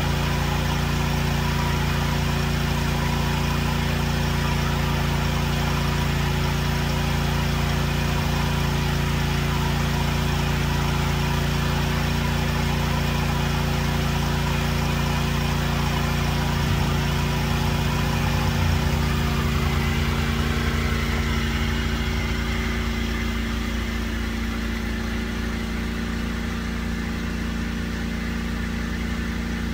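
A tractor engine running steadily. About twenty seconds in, its pitch sinks and it gets a little quieter as the engine slows down.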